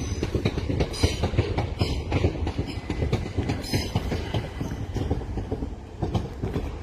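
Class 377 Electrostar electric multiple unit running by on the main line, its wheels clicking over the rail joints in a quick, steady run over a low rumble.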